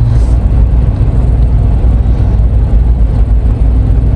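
Car engine idling, heard from inside the cabin as a loud, steady low rumble.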